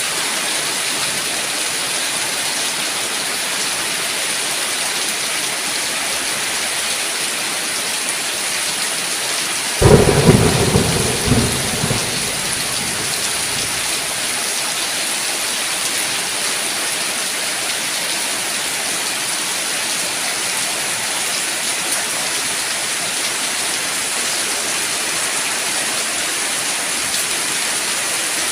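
Steady rain falling, with a sudden clap of thunder about ten seconds in that rumbles away over two or three seconds.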